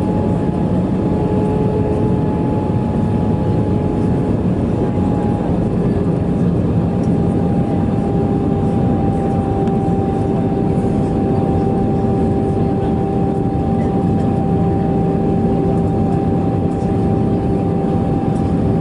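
Cabin noise inside an Airbus A320-214 with CFM56 engines: a steady rush of air and engine noise with a steady engine tone that drops slightly in pitch about five seconds in.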